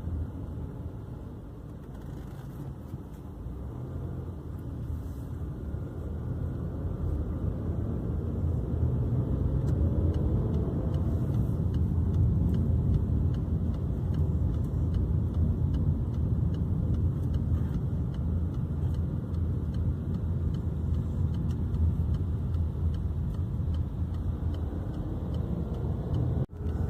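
Car on the road: a low engine and tyre rumble that grows louder over the first ten seconds or so, then holds steady.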